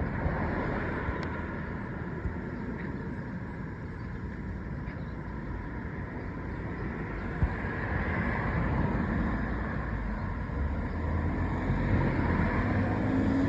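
Steady outdoor background noise: a low rumble with a faint hiss above it, growing a little louder in the second half.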